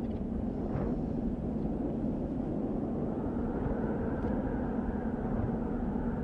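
Desert wind blowing steadily with a low rumble; about halfway a higher whooshing layer swells in and holds.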